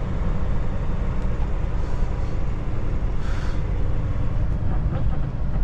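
Kenworth T680 semi-truck cab interior while driving: steady low rumble of engine and road noise, with a short hiss about three seconds in.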